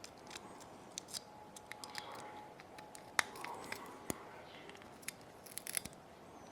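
Small hand tools clicking and scraping on the parts of an opened iPod Nano 6th generation: scattered light clicks, with a quick run of clicks near the end.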